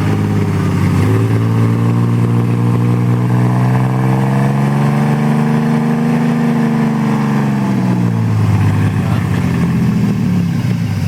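A vehicle engine that has just started runs steadily, its speed slowly rising for several seconds and then easing back down to a steady idle.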